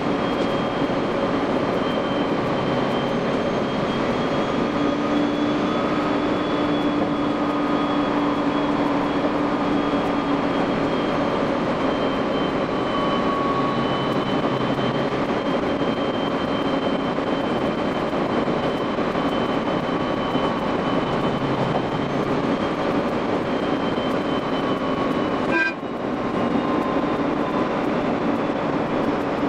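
Train running noise from the cab, sped up five times: a steady rush of running noise under several steady whining tones that drift slowly in pitch. There is a brief sharp break in the sound a few seconds before the end.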